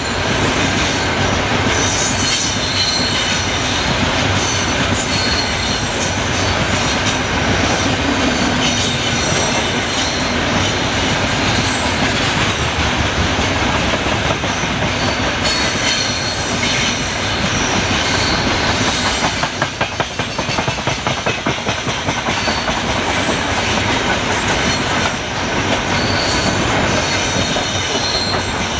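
Freight train of open-top gondola wagons rolling past close by: a steady rumble and clatter of steel wheels on the rails, with thin high wheel squeals coming and going. About twenty seconds in, the wheels strike the rail joints in a quick, even clickety-clack run.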